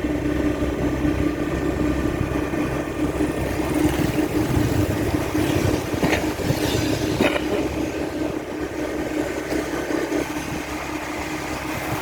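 A vehicle running, a steady engine hum with low rumble throughout.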